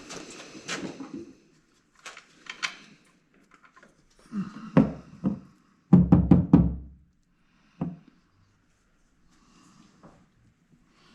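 A series of irregular knocks and clunks, each short with a little ringing after it. The loudest is a quick cluster of several knocks about six seconds in.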